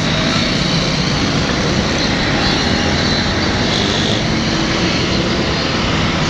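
A passenger train running past at close range: a steady, loud rumble and rattle of the coaches' wheels and running gear on the rails.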